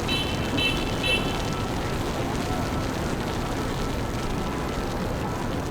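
Steady city street noise of traffic, with three short high electronic beeps about half a second apart near the start.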